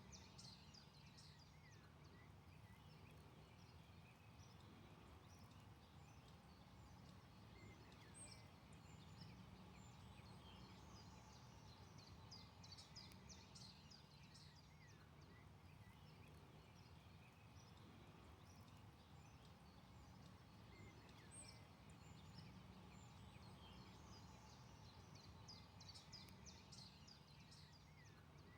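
Faint forest birdsong: many small birds chirping and trilling in short bursts throughout, over a steady low background hum.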